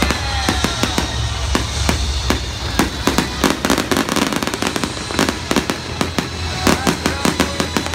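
Festive fireworks display: rapid, overlapping bangs and crackles, densest in the middle and again near the end, with music playing underneath.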